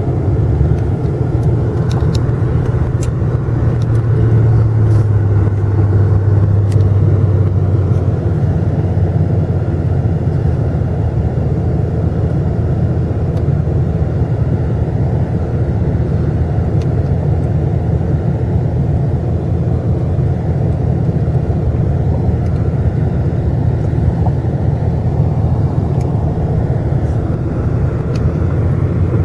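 A motor vehicle running, a loud, steady low rumble that holds the whole time, with an engine hum most distinct in the first several seconds.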